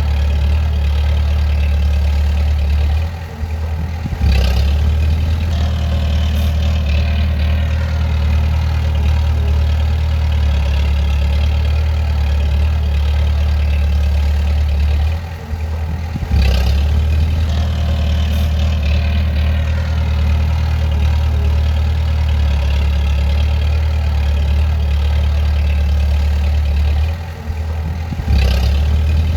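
Bulldozer's diesel engine running with a steady deep hum. Three times, about twelve seconds apart, it drops briefly and comes back with a sudden surge.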